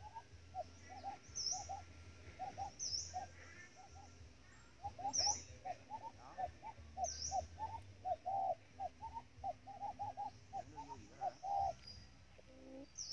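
Birds calling: a quick, uneven run of short low hooting notes, two or three a second, that stops shortly before the end, with a high thin chirp every couple of seconds.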